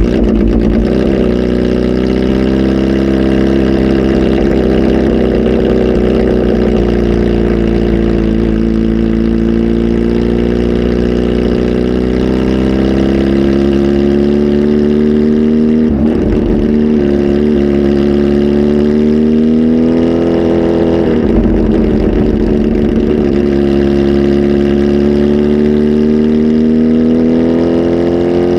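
Kawasaki Z H2 SE's supercharged inline-four, flash-tuned and breathing through a full exhaust, running loud and steady. Its engine speed sags at first, then climbs slowly over many seconds, with two brief breaks in the note about halfway through.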